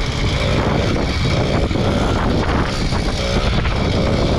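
80cc two-stroke motorized bicycle engine running while riding, mixed with steady wind buffeting on the microphone.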